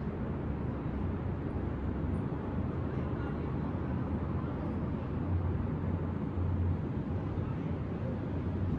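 Steady low rumble of distant city traffic, swelling a little around five to seven seconds in.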